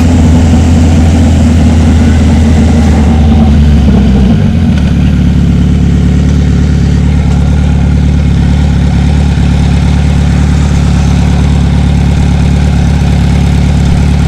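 Kawasaki Z900's inline-four motorcycle engine running steadily at low revs, its pitch settling slightly lower about four and a half seconds in.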